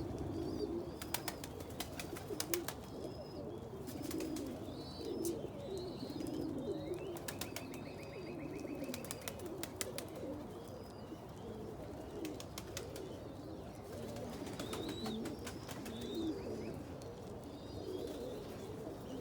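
A loft full of domestic fancy pigeons cooing continuously in overlapping low, bubbling calls. Sharp clicks sound in short clusters, with a few higher chirps scattered through.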